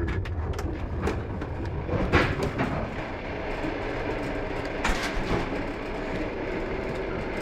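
Running noise of a moving passenger train heard from inside a carriage: a steady rumble and rattle from the rails, with a few sharper knocks about two and five seconds in.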